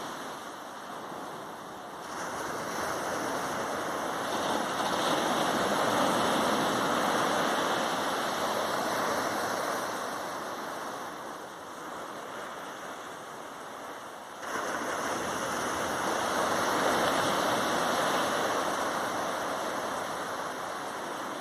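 Ocean waves breaking on a sandy shore: a continuous rush of surf that swells up about two seconds in, slowly eases, then surges again suddenly about fourteen seconds in.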